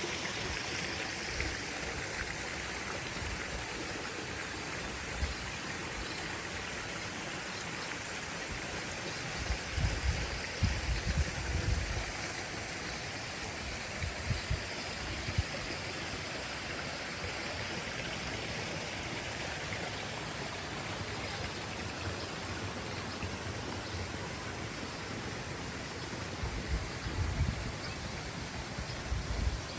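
A stream of water running steadily. There are clusters of low thumps about ten seconds in and again near the end.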